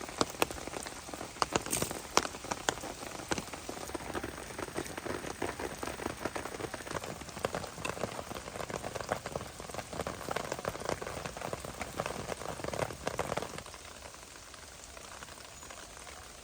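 Rain falling, with many close drops ticking sharply over a steady hiss; the dripping thins out and quietens about thirteen and a half seconds in.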